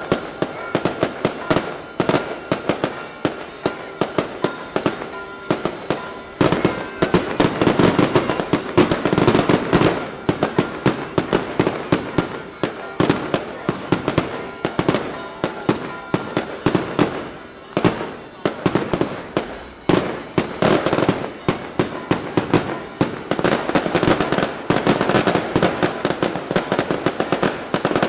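Daylight fireworks: a dense, continuous barrage of sharp bangs and cracks, many a second, growing heavier about a quarter of the way in and again near the end.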